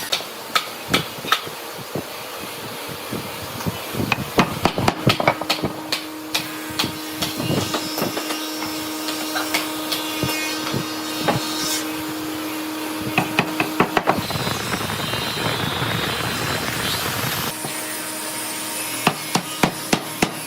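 Hammer blows on wood: sharp, irregular knocks, some single and some in quick runs of several strikes. A faint steady hum sits underneath for part of the time.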